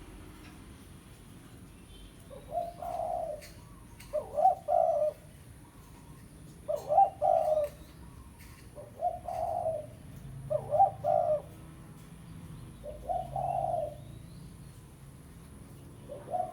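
Spotted dove cooing: about seven phrases, each a couple of short notes followed by a longer coo, repeated roughly every two seconds, the kind of call used as a lure to draw wild spotted doves.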